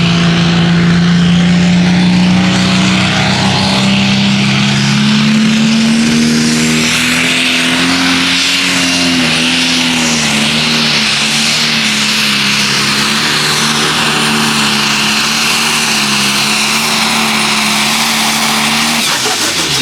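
Super/pro stock pulling tractor's engine running flat out through a pull, its pitch climbing a little and then holding steady. Near the end the engine is let off and its pitch drops sharply.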